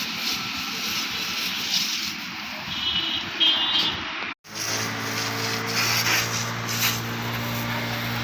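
Car wash machinery: a steady spray hiss, which breaks off abruptly about halfway, followed by a steady motor hum under continuing hiss.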